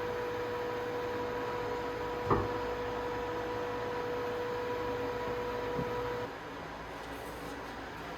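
A steady electrical hum over background noise, with a sharp click a little over two seconds in; the hum cuts off about six seconds in.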